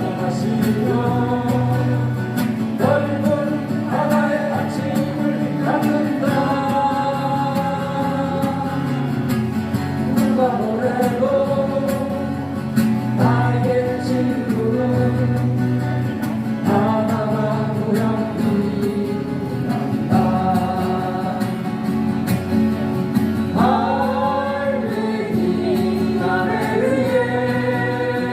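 A song performed live: a singer holding long, sliding notes over acoustic guitar accompaniment, played through a PA system.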